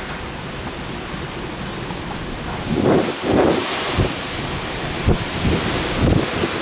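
Typhoon wind and rain as a steady rushing noise. The wind swells about two and a half seconds in, and gusts buffet the microphone with low rumbling thumps several times after that.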